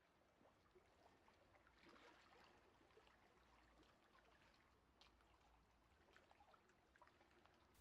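Near silence: a faint hiss with a few tiny clicks.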